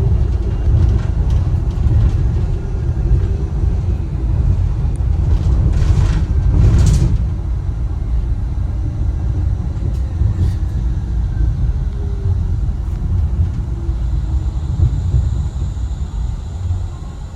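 Wuppertal Schwebebahn suspension railway car running, a steady low rumble, with two brief hisses about six and seven seconds in.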